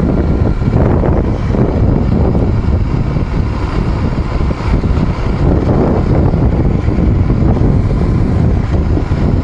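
Steady wind rumble buffeting the microphone of a phone riding on a moving bike.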